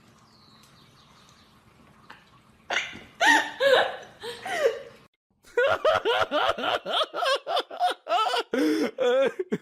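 High-pitched laughing: a few drawn-out laughs, a brief break, then a fast run of short laughs at about four a second.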